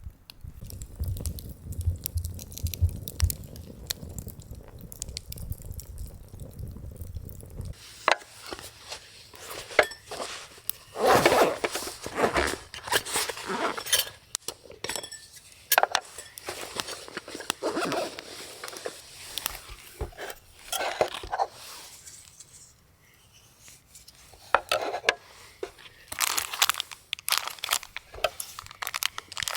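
Cookware and utensils clinking and knocking, with crunching and rustling, during camp cooking; a low rumble fills the first several seconds.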